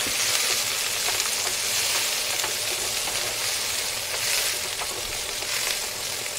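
Diced green bell pepper sizzling in olive oil in a frying pan: a steady hiss, with light scrapes and taps as a wooden spatula stirs it.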